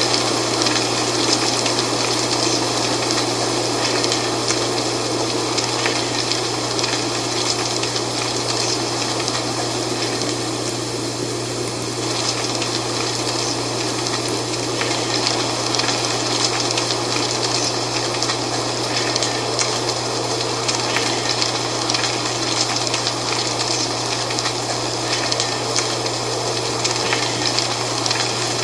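Dry fall leaves rustling in steady wind, a continuous crackling hiss that swells slightly and eases, over a steady low hum.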